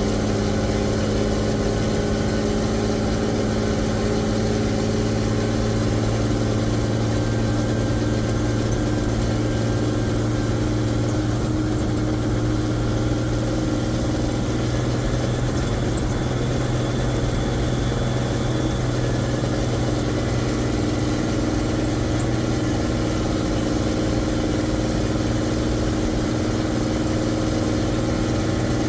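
M35A2 deuce and a half's multifuel six-cylinder diesel engine running steadily, with small shifts in engine speed partway through.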